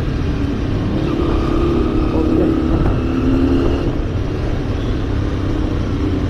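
A motorcycle running while riding, picked up with heavy wind rumble by a GoPro Hero 7 Silver's built-in microphone, with a low engine hum steady throughout.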